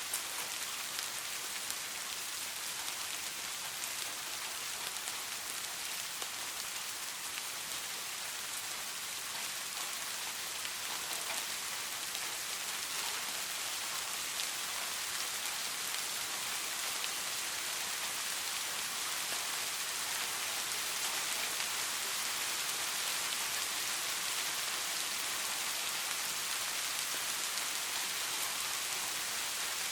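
Steady rain falling, a dense even hiss of drops with faint individual patters, rising slightly in the second half.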